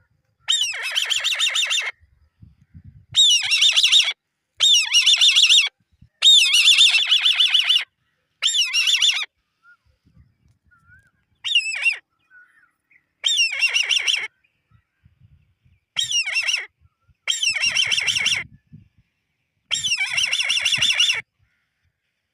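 Eagle chick calling: about ten bouts of rapid, high-pitched chittering squeals, each around a second long, with short pauses between them.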